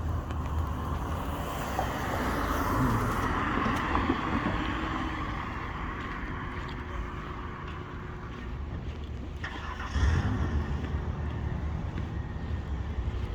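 Car and truck engines running and driving past in a parking lot. A swell of vehicle noise comes a couple of seconds in, and a louder engine rumble starts suddenly about ten seconds in.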